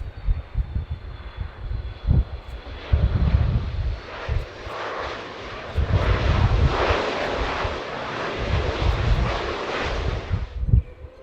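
Jet airliner engines, a broad roar that builds over several seconds as the plane passes and then cuts off abruptly near the end, with wind buffeting the microphone.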